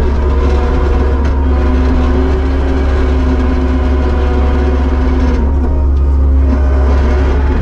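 Kubota SVL75-2 skid steer's diesel engine running steadily and loudly, with a strong low drone.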